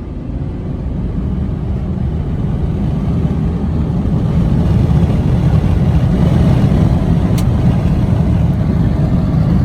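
Diesel pickup truck engine under hard acceleration: a deep rumble that grows steadily louder over the first few seconds, then holds at full throttle.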